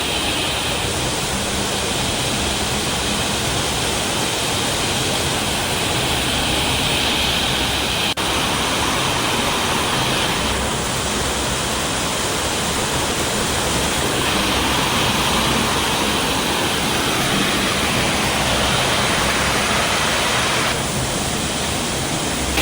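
Elabana Falls waterfall: a steady, loud rush of falling water.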